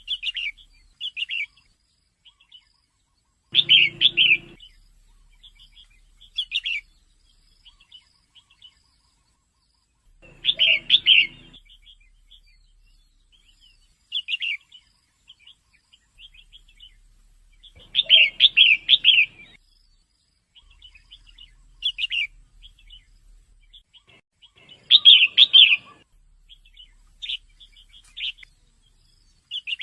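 Female red-whiskered bulbul calling: short phrases of bright chirps every few seconds, the louder ones quick runs of three or four notes.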